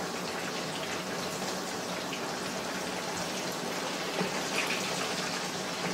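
Chicken frying in a skillet, a steady sizzle with a few light taps of a spatula as it is stirred, over a low steady hum.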